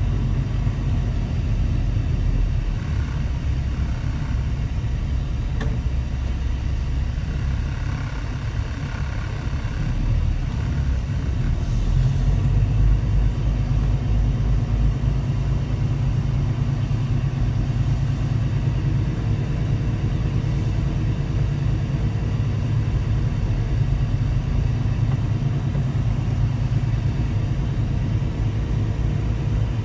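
Semi truck's diesel engine running steadily as the rig drives along, a deep, even drone with no marked changes in pitch.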